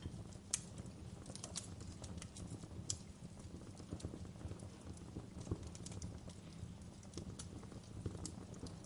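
Wood fire burning in a fireplace, crackling with irregular sharp pops and snaps over a low steady rumble of the flames; a few louder pops stand out, about half a second, three seconds and five and a half seconds in.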